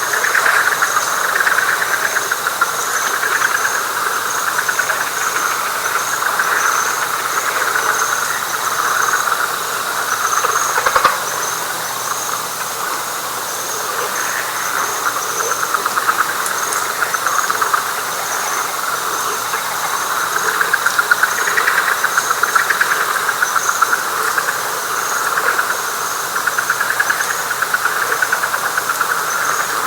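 Dense night chorus of frogs in a wet pine flatwoods: a fast, pulsing mass of calls that swells and eases. A thin, high, steady insect trill runs above it.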